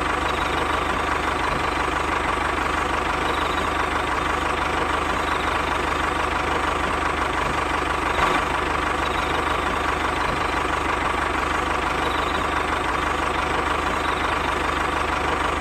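Tractor engine running steadily at an even idle-like pace, cutting off suddenly at the end.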